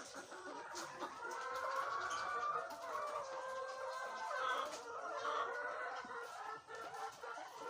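A flock of laying hens clucking and calling over one another, many voices at once, with a longer drawn-out call about one and a half seconds in.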